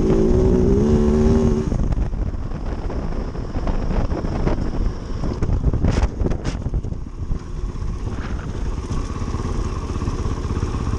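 Kove 450 Rally's single-cylinder engine pulling hard with its pitch rising, then dropping off sharply under two seconds in as the throttle eases. It then runs on at lower revs over a steady low rumble, with two sharp knocks about halfway through.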